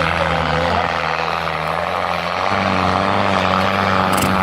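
Tractor diesel engine running steadily, its note rising slightly about halfway through. A brief high tick comes near the end.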